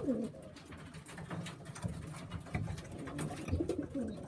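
Young tippler pigeon cockbird cooing in a small loft: one coo right at the start and another about three and a half seconds in, with faint clicks and scuffles between.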